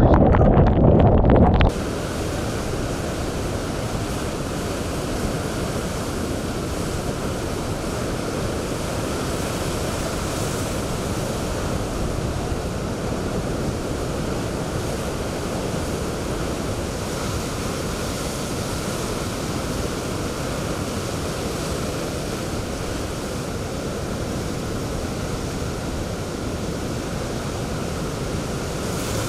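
Typhoon wind buffeting the microphone with a loud low rumble. About two seconds in, it cuts to a steady wash of strong wind and storm-surge waves breaking.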